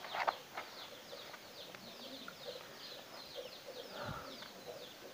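Small birds chirping in the background, many short high chirps that keep going, with the rustle of a notebook page being handled about the start.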